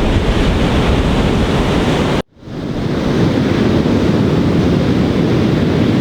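Wind buffeting the microphone over a steady rush of surf. About two seconds in the sound cuts out abruptly and fades back up.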